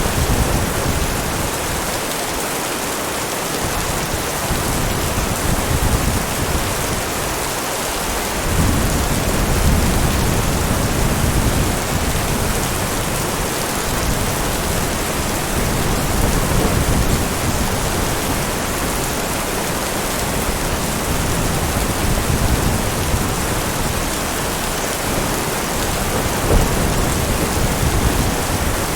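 Steady heavy rain, with low rumbles of thunder swelling and fading several times.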